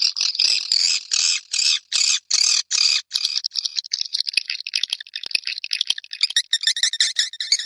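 Swiftlet calling sound (suara panggil walet): a run of sharp chirps, about three a second, turning into fast, dense twittering about three seconds in.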